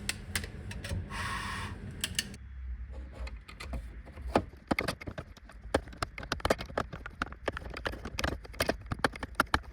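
Rapid, irregular metallic clicking of a screwdriver working the rear parking-brake shoe adjuster gear through a wheel-bolt hole, spreading the brake shoes. The clicking is dense from about two and a half seconds in, with a short hiss about a second in.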